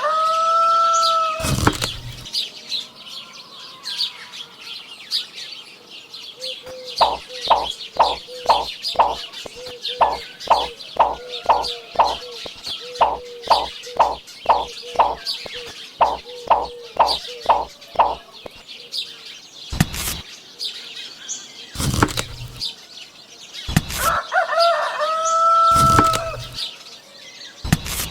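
Fowl-like bird calls: a drawn-out call that rises and then holds, near the start and again near the end, with a long run of short, evenly repeated calls, about two a second, in between. Faint chirping runs underneath, and a few sharp knocks come in the last third.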